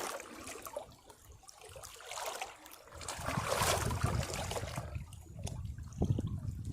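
Sea waves washing over rocks and trickling back off them. It is quieter for the first couple of seconds, then a new wash swells about three seconds in, with low surges of water again near the end.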